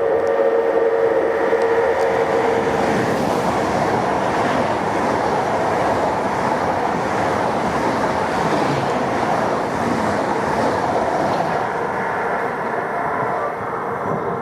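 A train passing on the line, with a loud, steady rolling noise of wheels on rail. A steady whine fades out in the first few seconds, and the noise eases off near the end.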